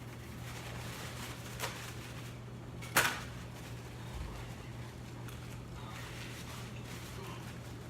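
Someone eating, with one sharp crunch or click about three seconds in and a softer one earlier, over a steady low hum.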